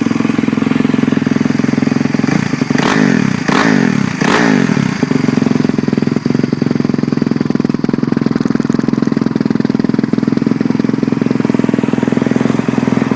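2011 Yamaha YZ450F motocross bike's 450cc fuel-injected single-cylinder four-stroke engine, with an FMF Factory 4.1 exhaust, running at idle and blipped three times a few seconds in.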